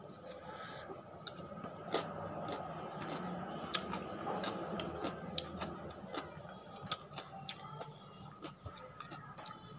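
Close-up eating of crunchy pickled cucumber: irregular sharp crunches and clicks as it is chewed, with a faint steady tone in the background.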